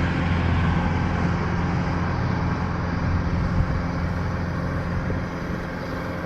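Engine of a heavy machine running steadily with a low hum, growing a little quieter near the end.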